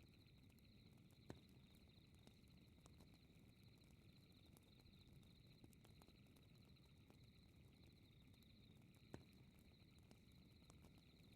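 Faint crackling fireplace: a soft low rumble with scattered small crackles and two sharper pops, about a second in and near the end. Over it runs a steady, evenly pulsing high chirping of night insects.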